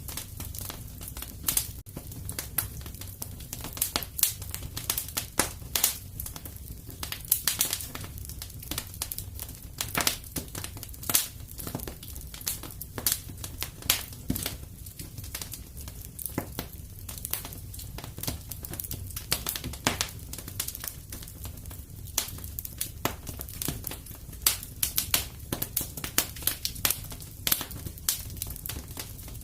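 Wood fire crackling in a fireplace: frequent irregular pops and snaps over a low steady rumble.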